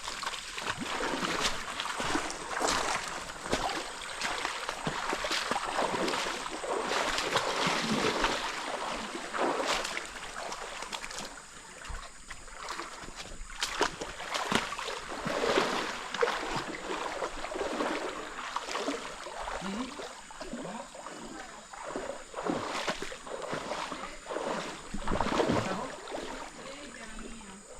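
Water splashing and sloshing in irregular strokes as someone swims in a river pool, with running water behind.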